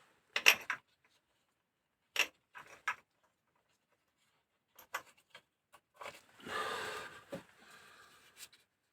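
Small metal engine parts and hand tools clinking and clattering as they are handled: a few short, sharp knocks, then a longer scraping rustle about six seconds in.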